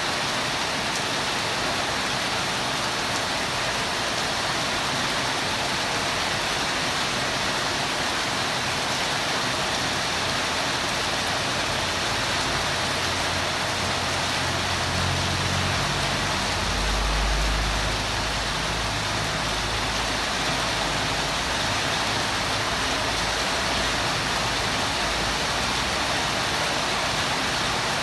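Steady rain, an even hiss. About halfway through, a low rumble swells up for a few seconds and fades.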